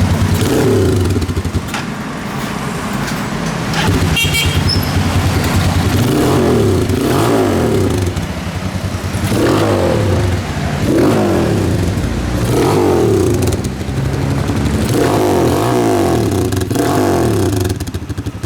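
Rusi motorcycle engine running through a new custom exhaust pipe with a silencer (dB killer) fitted, revved in repeated short blips every second or two between idling. With the silencer in, the exhaust note is quieter than with the open pipe.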